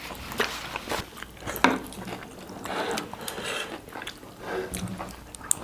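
People eating, with chewing, soft wet mouth noises and scattered small clicks close to the microphone.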